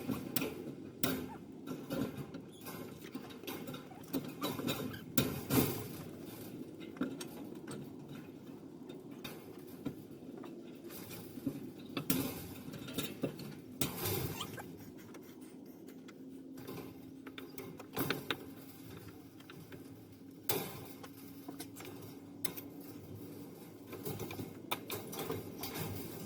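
Irregular light clicks, knocks and scratching, as of hand work on small parts, with a faint steady hum for several seconds past the middle.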